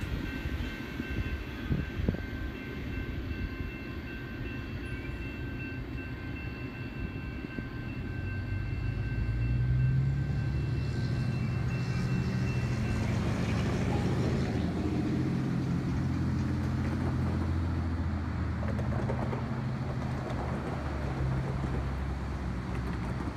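Low rumble of a train that swells about eight seconds in and holds steady. Faint steady high tones run under it for the first half.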